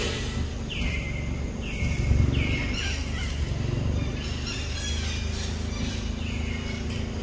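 A bird calling repeatedly in the forest, each call sliding down in pitch, about one a second with a pause in the middle. A steady low rumble runs underneath, with a low thump about two seconds in.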